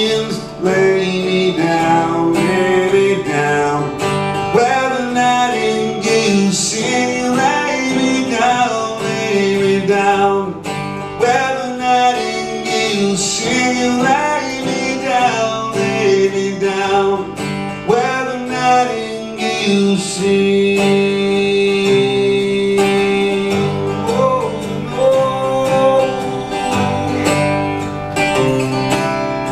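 Live band music: acoustic guitar strumming with a melody line over it, possibly with some singing, in a folk song.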